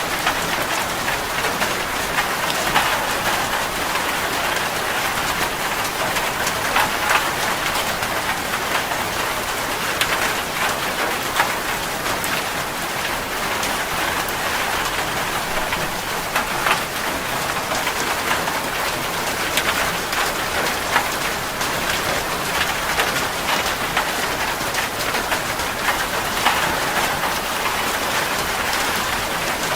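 Steady rain falling on a surface, a continuous hiss with the patter of individual drops.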